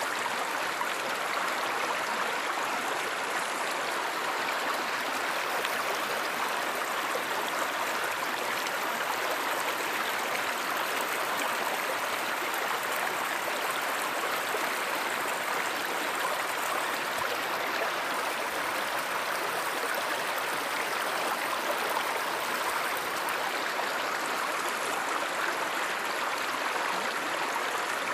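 Stream water flowing and rushing steadily, with no breaks or changes.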